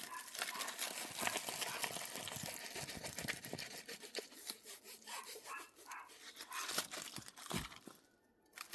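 Plastic packaging crinkling and rustling as a diamond painting kit is handled, with a dog whining a few times partway through. The sound drops out almost completely for a moment near the end.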